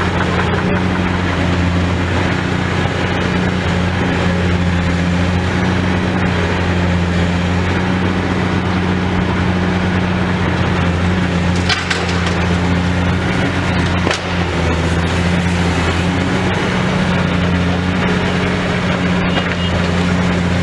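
Demolition excavator's diesel engine running steadily with a low hum, over the crunching and splintering of broken building material, with a few sharp cracks along the way.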